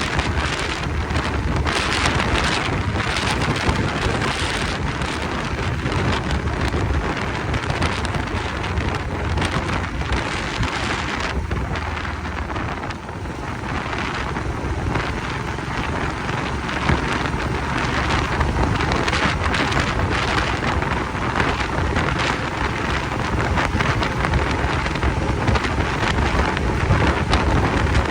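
Wind rushing over the microphone of a moving motorcycle, a steady loud hiss with a low rumble beneath. It eases briefly about halfway through, then builds again.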